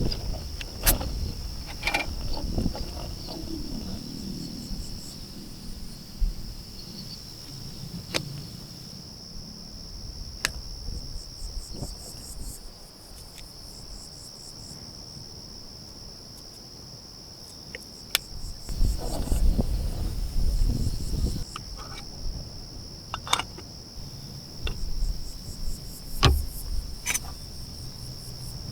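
Steady high-pitched chorus of crickets, with scattered sharp clicks and knocks throughout and a low rumble for a couple of seconds about two-thirds through.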